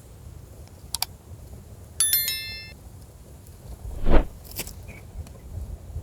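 A short metallic clink that rings for under a second, like metal cookware being struck, about two seconds in. About two seconds later comes a louder dull thump, with a few small clicks and low wind rumble between them.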